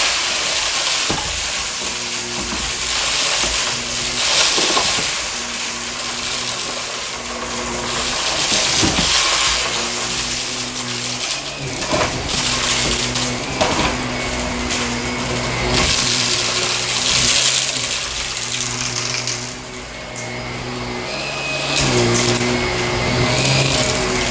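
Shark vacuum cleaner running over carpet, pushed back and forth quickly: a steady motor hum under a rushing airflow hiss that swells and fades with each stroke. Small crackles and clicks come through as grit is sucked up.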